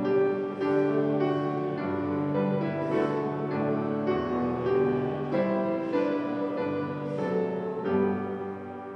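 Keyboard instrument playing a slow hymn tune in held chords that change about once a second. The chords fade away near the end.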